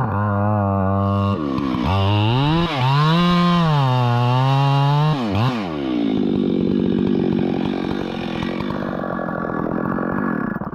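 Two-stroke chainsaw revving up and down several times, then dropping in pitch into a rougher, loaded sound from about six seconds in as it cuts through wood, before falling away at the end.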